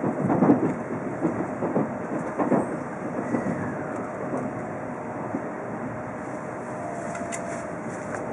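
Shinkansen running noise heard from inside the passenger cabin: a steady rumble of wheels on rail, with several heavier knocks over the first three seconds.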